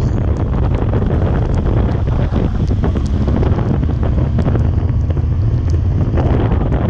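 Heavy wind buffeting the microphone: a steady, loud low rumble, with scattered small ticks over it.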